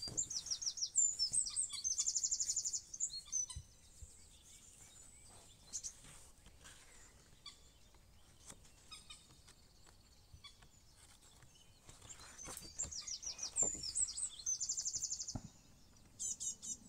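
Songbird singing: two bursts of high, rapid trills, with quieter chirps between them.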